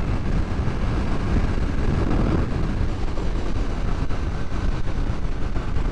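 Motorcycle running steadily at road speed, its engine rumble mixed with heavy wind rush over the microphone.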